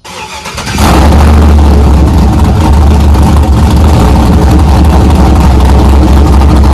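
Pickup truck engine starting and catching within the first second, then idling loud and steady through a newly welded straight-pipe exhaust with the muffler removed.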